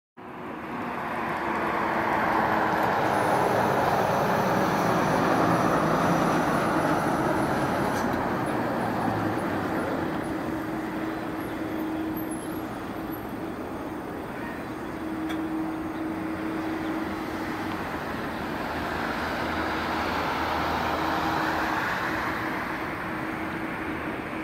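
Jet airliner on landing approach passing low overhead: broad engine noise that swells over the first few seconds, eases around the middle and swells again near the end, with a steady hum under it.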